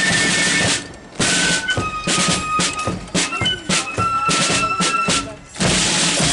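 Marching flute band playing: held high flute notes over bass drum, snare and cymbal crashes, the sound dipping briefly twice.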